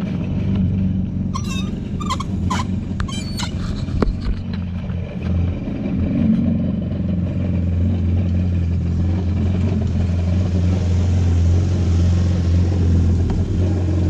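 Yamaha GP1800R jet ski's four-cylinder four-stroke engine idling steadily out of the water, started before the flush hose is turned on. A few sharp clicks and squeaks sound between about one and four seconds in, and a hiss rises near the end.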